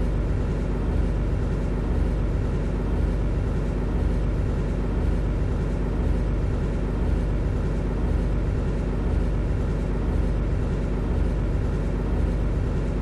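Steady low rumble inside an MTR Tseung Kwan O line C-Train car, with a constant hum and a faint pulse about once a second.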